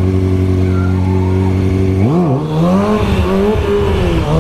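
Motorcycle engine idling steadily, then from about two seconds in revved with the throttle, its pitch rising and falling several times as the rider pulls away.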